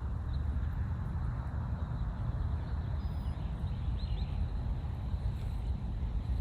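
Steady low rumble of a distant jet airliner on approach, with a few faint bird chirps about four seconds in.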